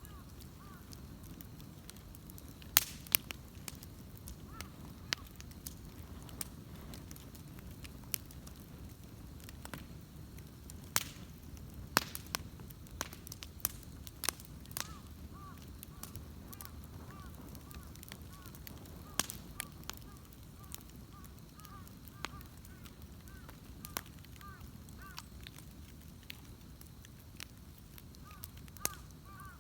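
Wood bonfire crackling, with a low steady rumble of the flames and irregular sharp pops of burning wood, several of them loud. Faint bird calls repeat quickly in the background, mostly in the second half.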